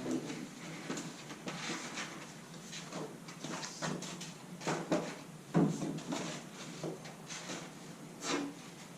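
Irregular short scrapes and rustles of a cardboard straight edge being handled and rubbed against the body panel, about a dozen strokes, the loudest a little past halfway.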